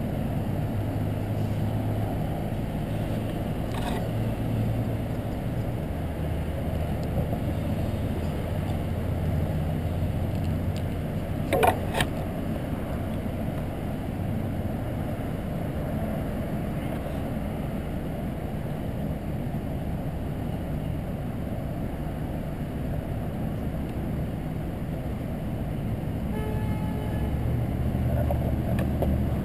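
Steady road noise on a bicycle ride, with motor traffic passing and low engine hums rising and falling. A short rattle comes about twelve seconds in.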